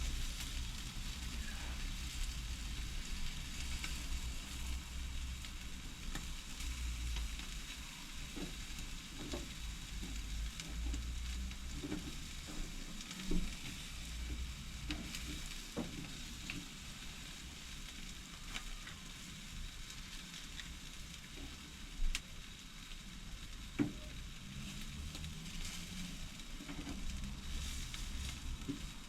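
Jerk chicken legs sizzling steadily on a barbecue grill over the fire, with three sharp pops, the loudest a little past the middle.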